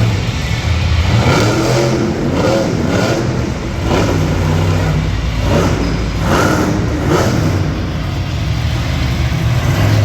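Monster truck engine revving in repeated blips, its pitch climbing and dropping about half a dozen times over a steady low rumble.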